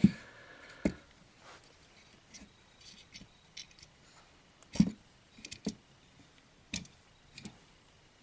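Scattered small clicks and knocks of a toy model jet being handled while its retractable landing gear is worked, with a sharp knock at the start and another about five seconds in.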